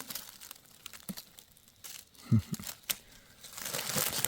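Rustling and crinkling of leaf litter and handling noise as mushrooms are picked, with scattered small clicks and a short low thump about two seconds in. A louder rustle builds near the end.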